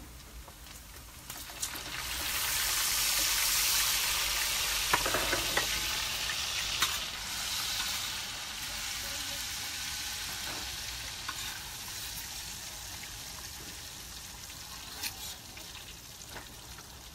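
Food frying in a hot stainless steel pan on a portable propane cooker. The sizzle swells sharply about a second and a half in, then slowly dies down, with a few clicks of a utensil being stirred through it.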